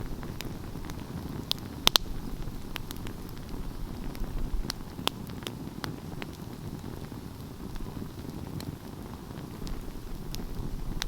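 Wood fire burning with a low steady rumble and scattered crackles and pops, the sharpest snap about two seconds in.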